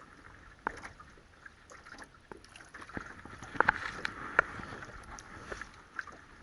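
Scattered sharp taps and clicks, a pair of them louder about halfway through, over a steady outdoor hiss.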